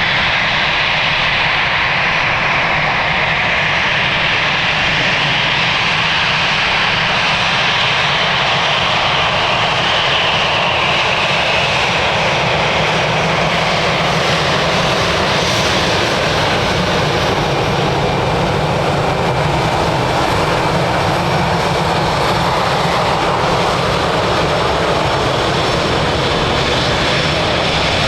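Jet airliner engines making a loud, steady rushing noise, its tone shifting slowly as the aircraft moves.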